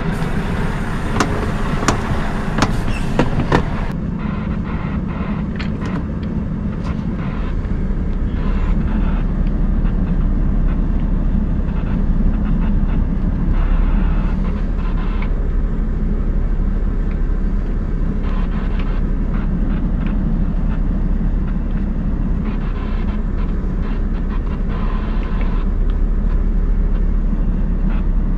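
Scania R580's V8 diesel engine running steadily as the truck is manoeuvred, heard from inside the cab, with several sharp clicks in the first few seconds.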